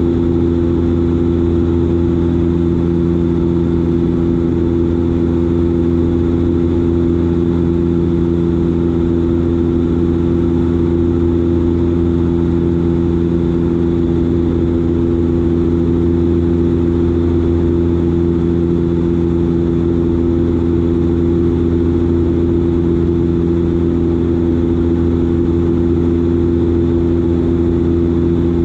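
Dash 8 Q400's turboprop engines and six-bladed propellers droning steadily in flight, a constant hum of several steady low tones over a rushing noise.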